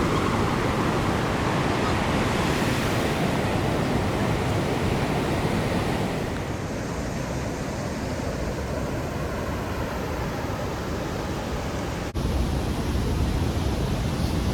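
Steady rushing roar of a large waterfall, Athirapally Falls, a broad even wash of noise. It turns duller about six seconds in and jumps back up at a sudden cut near the end.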